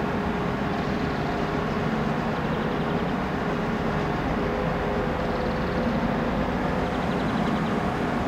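Passenger train running slowly into the station platform: a steady mechanical drone with a low rumble and a faint humming tone.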